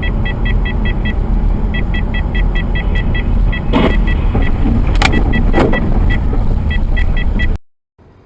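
Dashcam recording of a moving car, with steady loud road and engine noise. Over it runs a rapid, regular high ticking that pauses twice. Three short loud sounds come in the middle, and the recording cuts off abruptly just before the end.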